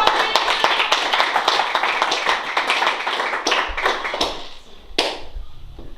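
Audience applauding, the clapping thinning out after about four seconds, then one sharp knock.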